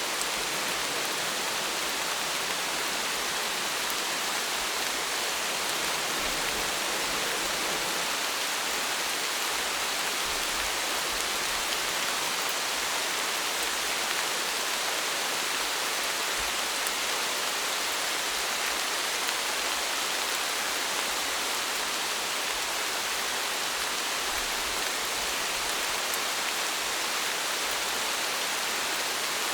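Steady rainfall, an even hiss of drops falling on a surface, with no change in strength.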